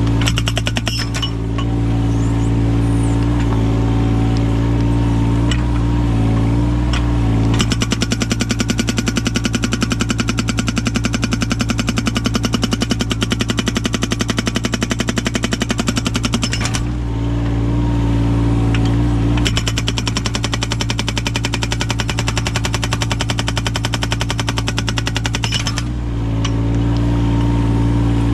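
Yanmar 017 mini excavator's engine running steadily, with its hydraulic breaker and axe-type splitting chisel hammering rapidly into firewood. The hammering comes in two long runs, the first starting about a quarter of the way in and the second a couple of seconds after the first stops.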